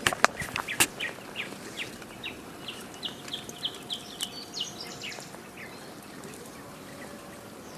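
A bird calling a run of short chirps, about two a second, climbing in pitch and coming faster before stopping about five seconds in. A few sharp clicks sound in the first second.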